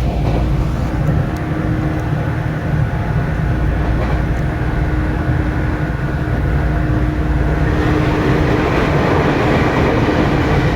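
413/455-series electric train running through a station: a steady rumble of wheels on rail with a constant motor hum, growing noisier about eight seconds in.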